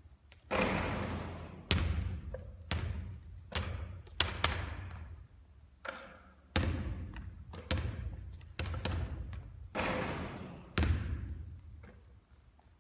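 A basketball thudding again and again during shooting practice, a hit every second or so, each one followed by a long echo from the hall.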